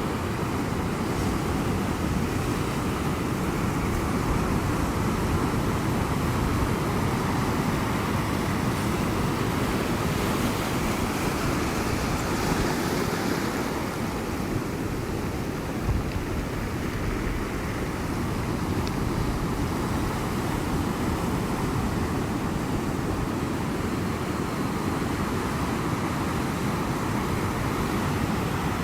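Ocean surf: a steady wash of breaking waves, with one wave swelling into a louder hiss around the middle.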